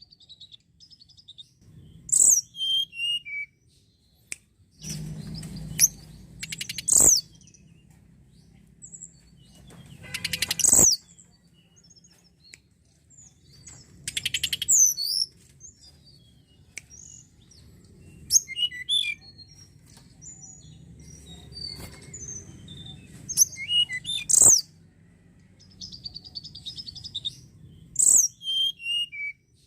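Tledekan gunung singing: short, sharp high chirps that fall in pitch, and brief trilled phrases, repeated every few seconds.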